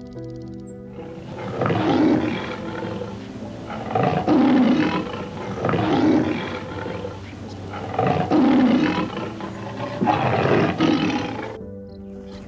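Big cat roaring five times, about two seconds apart, over steady background music.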